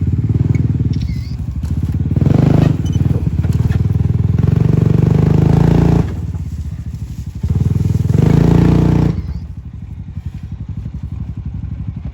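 ATV engine revving hard in two long bursts, the first from about two seconds in until it drops off suddenly at about six, the second around eight to nine seconds, settling back to a lower run between and after.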